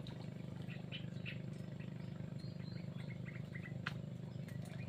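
Birds giving short scattered chirps over a steady low hum, with one sharp click near the end.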